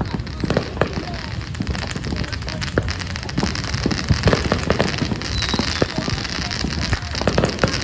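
Fireworks crackling: a dense run of rapid, irregular sharp pops over a hiss that swells about halfway through.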